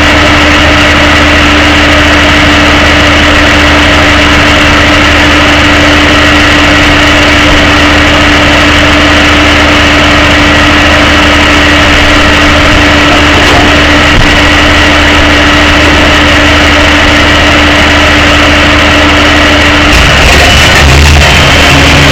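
Tow truck's engine running steadily with a constant hum, its tone shifting about twenty seconds in.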